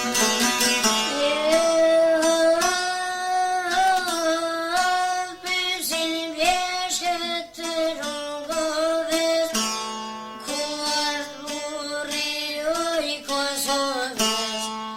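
Albanian folk song: a solo voice singing a long, ornamented melody over plucked string accompaniment. The strings play alone for about the first second before the voice comes in.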